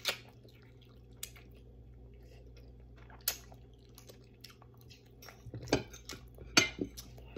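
Close-up eating sounds: a person chewing food, with sharp lip smacks and clicks, a few spaced out at first and a denser, louder run about two seconds before the end.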